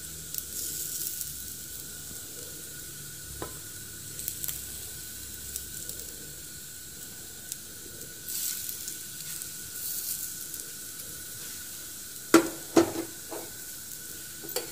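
Flour-coated vegetable slices (green banana, ridge gourd and chow chow) sizzling in a little oil in a non-stick frying pan as more slices are laid in, a steady hiss with small clicks. Two sharp knocks come near the end.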